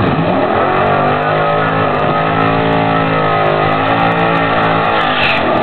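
LT1 V8 in a Camaro Z28 held at high revs through a burnout. The engine note climbs slightly, then eases back down near the end.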